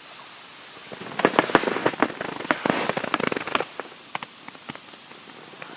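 A burst of rapid, irregular crackling clicks that thins out to scattered single clicks after about three and a half seconds.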